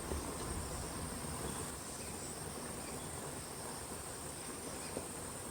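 Steady, high-pitched insect chorus of crickets or cicadas in the forest, with a low rumble underneath.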